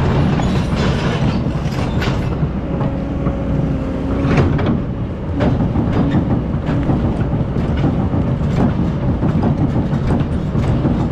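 Excavator's diesel engine running with a steady drone, broken by repeated metallic clanks and knocks.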